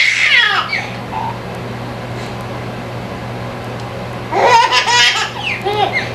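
A baby laughing in bursts of belly laughs, once at the start and again from about four seconds in, over the steady hum and wash of a running dishwasher.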